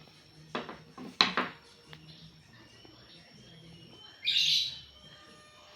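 Two short knocks, then a bird chirping briefly and loudly a little after four seconds in.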